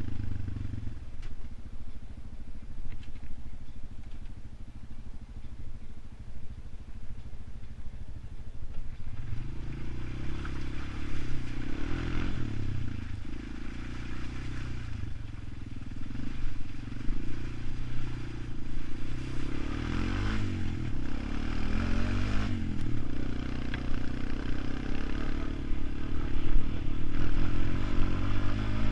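ATV engine running and being ridden, its pitch rising and falling with the throttle, with rattling. It gets louder from about a third of the way in.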